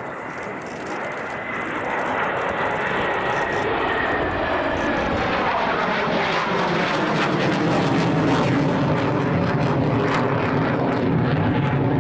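An aircraft flying past, its engine sound growing louder over the first couple of seconds, with a pitch that falls as it goes by.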